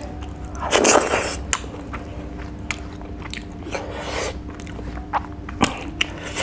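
Close-miked eating: wet chewing and mouth smacks, with the loudest burst about a second in, another around four seconds in, and a few short sharp clicks between.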